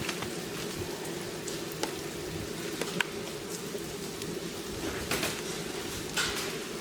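Meltwater dripping and pattering as ice thaws off trees, over the steady low drone of a heater running, with a few sharper ticks and clicks.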